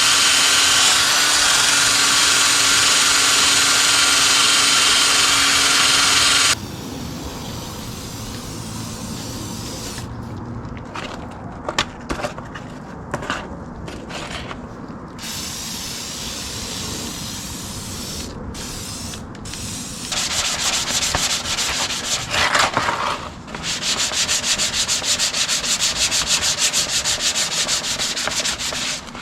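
Sanding and rubbing on a dirt-bike part, in edited stretches. The first six seconds are loud, even sanding with a steady whine that cuts off suddenly. Quieter scraping and a few clicks follow, and then fast, even back-and-forth rubbing near the end.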